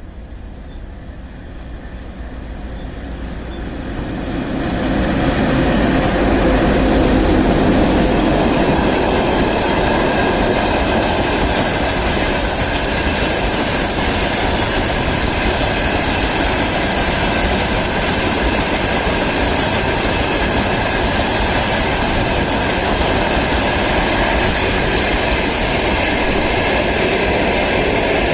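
VL10 electric locomotive hauling a freight train of dump cars past, growing louder over the first five seconds as it nears, then a steady loud rolling noise of wagon wheels on the rails, with clicks from the rail joints and faint high ringing tones.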